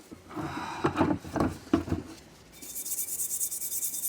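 Steering knuckle being scrubbed while soaking in a bucket of petrol: a couple of seconds of handling knocks and scraping, then fast, even scrubbing strokes of a brush against the metal.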